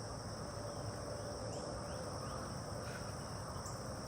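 Steady high-pitched insect chorus, a continuous trill in the background.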